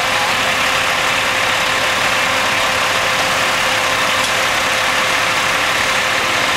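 An engine idling steadily: a constant, unchanging hum with a faint steady tone, mixed with a steady hiss.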